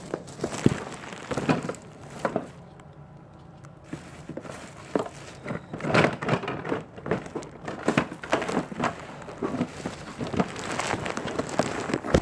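Pieces of a plastic toy train set being handled, making irregular clicks, clatter and some crinkling, with a quieter pause about three seconds in.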